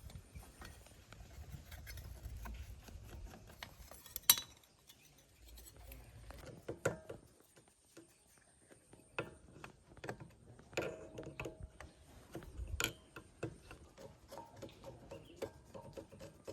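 Hand work on old machine parts: scattered light clicks, taps and rubbing, with a sharp click about four seconds in and another knock later on.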